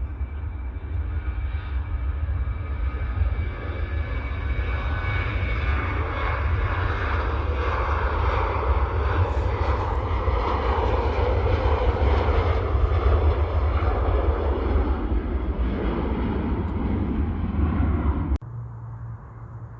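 Jet airliner passing, its engine noise a steady rumble that swells to a peak around the middle, with a thin high whine early on, then cuts off suddenly near the end.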